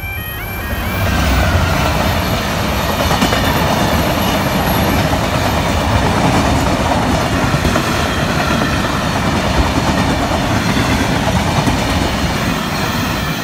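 Class 66 diesel locomotive's two-stroke engine passing close about a second in, followed by a long train of empty flat wagons rumbling and clattering over the rails.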